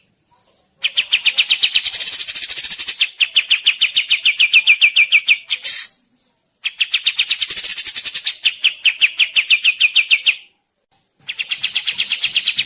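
A songbird singing a rapid string of repeated, sharp chirps, about nine a second, in long unbroken phrases of several seconds, with short pauses about a second in, near six seconds and near eleven seconds.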